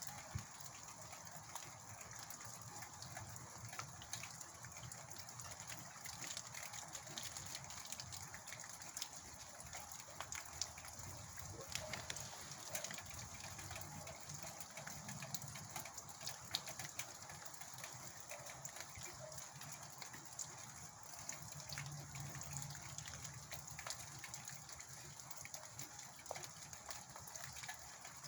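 Steady rushing wash of wind-driven rain, with many scattered light taps of drops.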